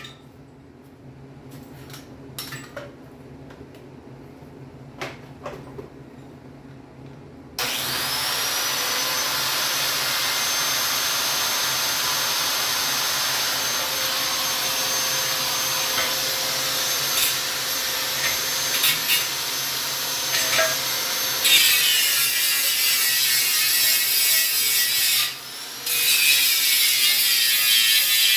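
A few light clicks and knocks, then an angle grinder starts about a quarter of the way in, its high whine settling as it comes up to speed, and runs against steel with a steady grinding hiss. It gets harsher and louder in the last third, with a brief break shortly before the end.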